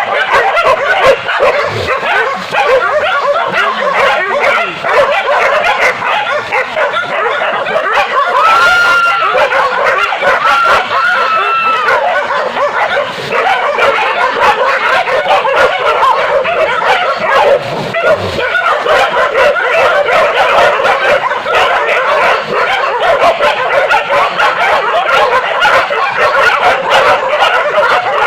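A pack of hunting dogs barking and yelping without a break, many voices overlapping, with a few drawn-out whining cries near the middle.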